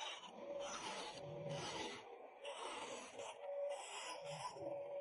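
Hand tool working wood in repeated rasping, scraping strokes, about one to two a second.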